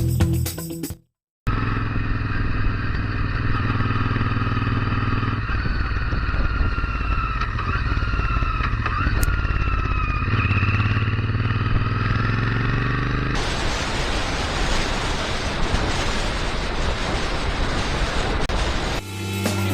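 A motorcycle engine running steadily. About two-thirds of the way through, a loud, even rush of wind noise over the microphone covers it.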